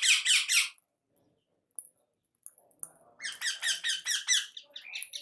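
A caged pet bird calling in rapid runs of high, squeaky downward-sliding notes, about eight a second, in two bouts: one ending under a second in, another starting about three seconds in.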